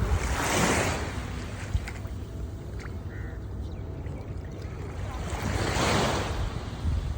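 Waves washing in, two rushes of surf about five seconds apart, over a steady low rumble of wind on the microphone.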